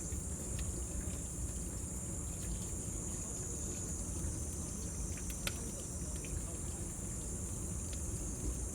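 Cicadas droning steadily at a high pitch over the low rumble of a bonfire, with scattered crackles and one sharper pop about five and a half seconds in.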